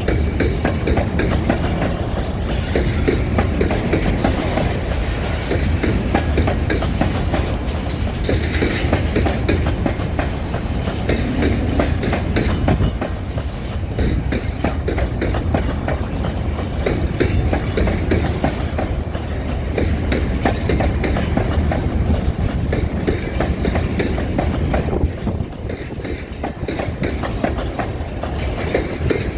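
Freight train rolling by, its wagon wheels clattering over the rail joints in a continuous rumble.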